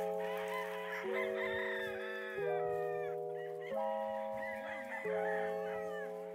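Gamefowl roosters crowing and chickens clucking over background music whose held chords change about every second and a half.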